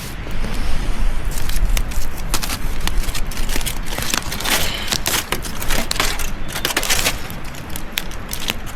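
Aluminium foil pack being pulled open and crinkled, a dense run of sharp crackles that is thickest in the middle, over a crackling campfire.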